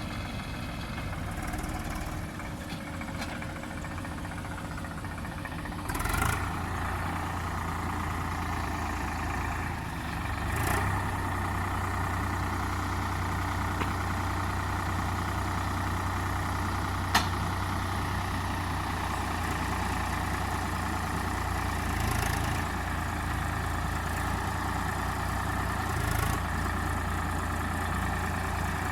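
Diesel engine of heavy earthmoving machinery running steadily, with a few short knocks and one sharp click.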